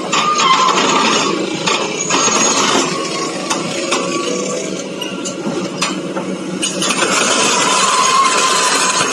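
Large excavator's steel tracks clanking and grinding metal on metal as it drives down off a transport truck, with a high squeal that comes and goes, strongest at the start and again near the end.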